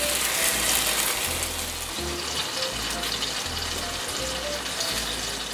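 Cabbage fritters frying in hot vegetable oil in a pan, a steady sizzle, with soft background music over it.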